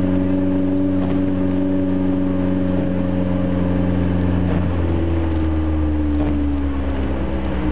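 A 4x4's engine running steadily, heard from inside the cabin on a snowy road; about five seconds in its note steps up and then slowly sinks.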